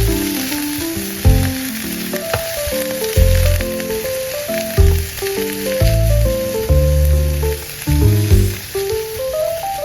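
Food sizzling as it fries in a hot pan, a steady hiss, under background music with a melody and bass notes.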